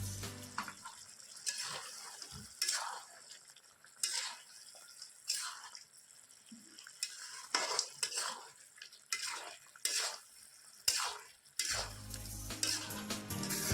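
A spatula scraping and stirring chicken as it fries dry in a pan, in repeated strokes about once a second, over a faint sizzle. Background music comes back in near the end.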